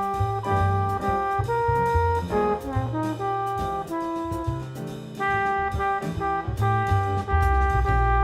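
Instrumental jazz: a brass horn plays a melody of held notes over a walking bass line and drums.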